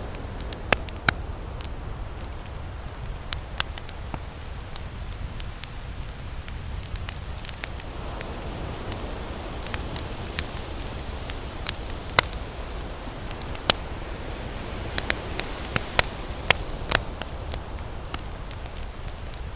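Wood campfire crackling, with irregular sharp pops about once or twice a second over a steady low rush of waves on the shore.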